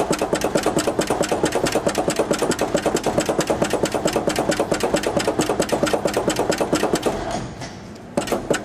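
1970 GMC truck's engine cranking over on the starter during a cold start, with a quick, even chug of about six or seven beats a second, not catching. The cranking stops about seven seconds in.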